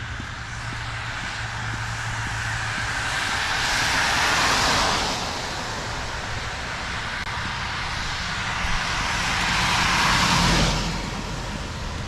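Two cars passing one after the other on a wet road, each a rising and falling hiss of tyres on wet pavement. The first peaks about four seconds in, and the second near the end before it drops away quickly.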